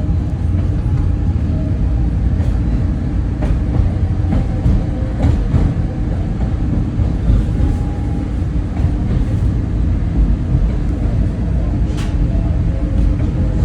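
SEPTA train running on the rails: a steady low rumble, with a few sharp clicks of wheels over rail joints and a faint, brief wheel squeal about two-thirds of the way through.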